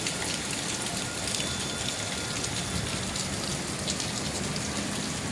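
Steady rain during a thunderstorm: an even hiss with many small drop ticks.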